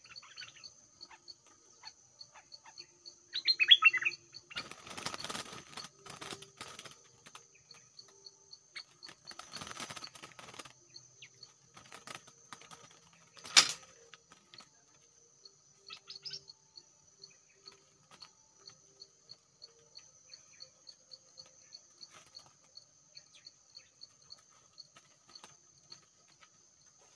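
A bird gives a short burst of loud chirps, followed by rustling and wing flaps in the foliage and a single sharp snap about halfway through. Insects trill steadily throughout.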